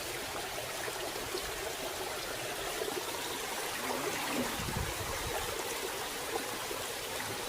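Water running and trickling steadily over rocks in a small stream.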